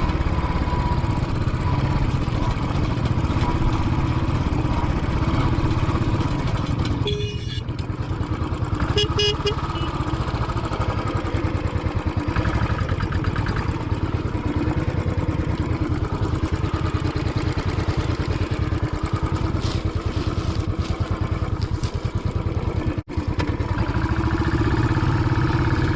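Royal Enfield Classic 500's single-cylinder engine running steadily under way, with a couple of short high beeps about seven and nine seconds in and a brief cutout of the sound near the end.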